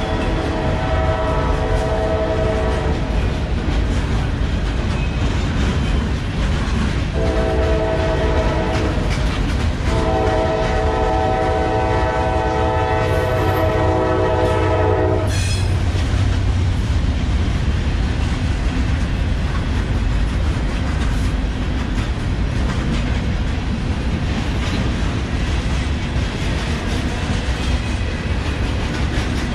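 Freight train tank cars and boxcars rolling past with a steady rumble and clickety-clack of wheels over the rail joints. A locomotive's multi-note air horn sounds over it: one blast near the start, then a longer two-part blast from about seven to fifteen seconds in.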